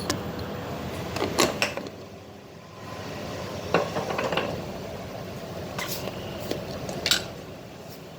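A metal spoon clinking against a cooking vessel as spice is spooned in: a quick run of sharp clinks about a second in, then single clinks a couple of seconds apart.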